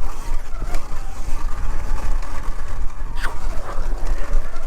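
Wind buffeting the microphone during a ride on a Segway X160 electric dirt bike: a loud, gusty low rumble with some rattle and tyre noise, and a brief falling whine about three seconds in.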